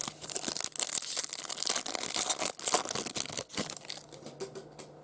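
Foil wrapper of a baseball card pack being torn open and crinkled, a dense run of crackling and rustling that dies away near the end.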